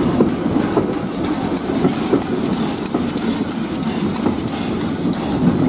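Heritage railway train heard from on board while running along the line: a steady rumble and rattle of the carriage, with a light, regular clicking about three times a second.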